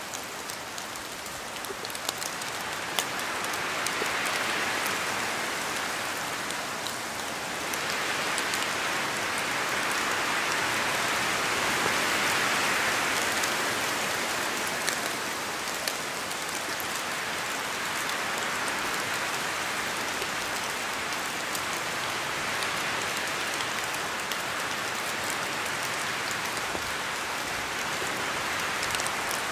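Steady rain falling on a surface, a dense hiss scattered with individual drop ticks, swelling in intensity a few seconds in and again around the middle before settling.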